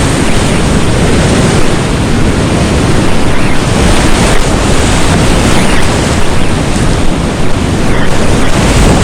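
Loud, steady rush of whitewater rapids.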